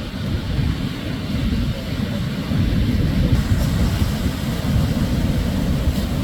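Shorebreak surf rumbling steadily, mixed with wind buffeting the microphone, with no single wave crash standing out.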